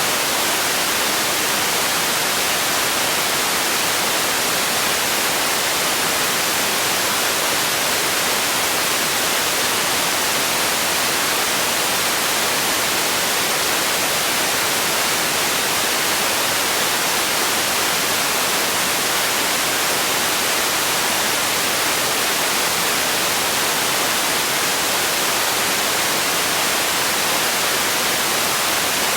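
Steady synthetic noise for sleep, an unchanging hiss weighted toward the high end.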